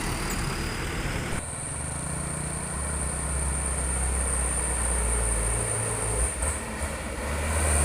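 Heavy diesel truck engine running steadily with a thin high whine over it. The sound changes abruptly about a second and a half in and gets louder near the end.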